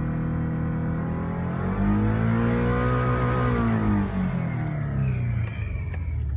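Subaru Legacy's EJ20R two-litre sequential twin-turbo flat-four idling, then revved once. The pitch climbs about two seconds in, peaks, and falls back toward idle about four seconds in. The engine sounds healthy.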